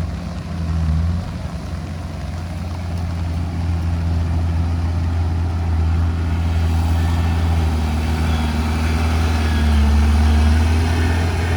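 Heavy diesel earth-moving machinery engine running steadily, its sound growing a little louder and higher in the second half.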